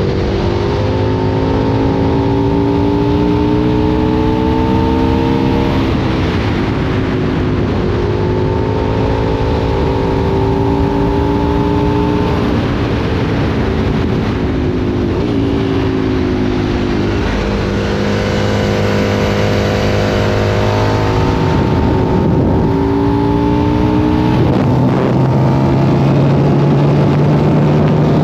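Aprilia Tuono 1000's 60-degree V-twin through a Remus aftermarket exhaust, on the move. The engine note climbs slowly under acceleration and drops sharply at each of several gear changes, with wind rushing over the microphone throughout.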